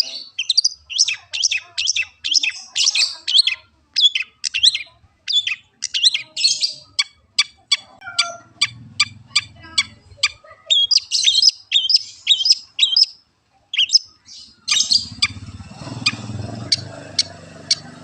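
Long-tailed shrike (cendet) singing a fast, varied series of short, sharp, high chirps, with a steadier run of evenly spaced notes, about three a second, in the middle. A low hum comes in near the end.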